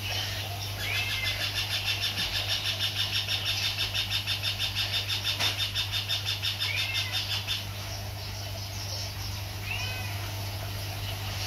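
Caged birds calling: a fast rattling trill from about a second in until near eight seconds, and short downward chirps a few times, over a steady low hum.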